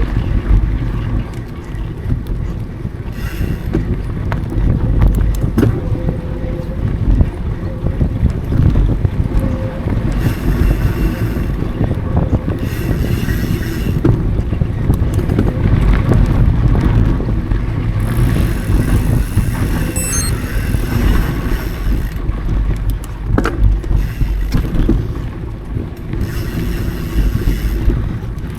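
Riding a mountain bike over dry singletrack: wind rumbling on the action camera's microphone, with tyre noise on the dirt and scattered clicks and knocks from the bike over the trail.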